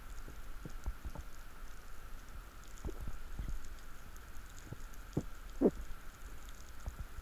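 Underwater ambience picked up by a diving camera: a faint steady hum with scattered light clicks and a few soft low knocks, the loudest knock about five and a half seconds in.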